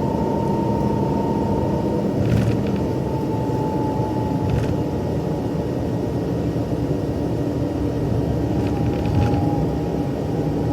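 Jet airliner heard from inside the cabin, its engines running with a steady rumble and a held whine, and a few brief rattles.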